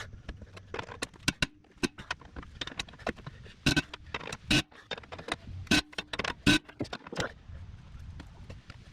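Irregular metallic clinks and knocks of hand tools on rusted bolts and steel under a Jeep, some strikes ringing briefly.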